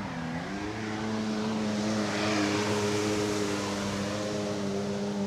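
Engine of a passing powered craft: its pitch drops as it throttles back near the start, then rises and holds steady, growing loudest about halfway through as it passes closest.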